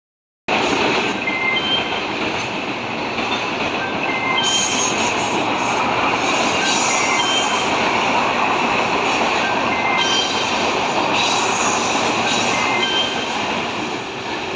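A JR 185 series electric train passing at speed: a steady rolling rumble of wheels on rail that starts about half a second in, with short high squeals from the wheels recurring throughout.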